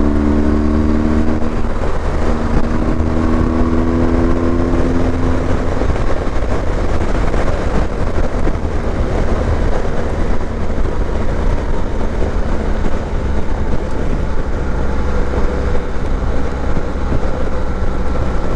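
Motorcycle riding at highway speed: steady engine drone under a loud rush of wind and road noise. A pitched engine note rises and fades over the first few seconds.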